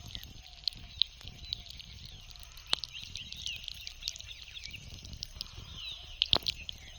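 Several birds chirping and twittering in quick, short notes, some sliding in pitch, with two sharp clicks, the louder one near the end amid a burst of loud chirps. A low rumble runs underneath.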